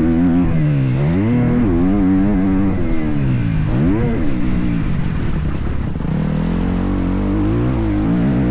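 Motocross bike engine revving up and down through the gears while riding, its pitch rising and falling several times, with a sharp drop and climb about four seconds in, over low wind rumble.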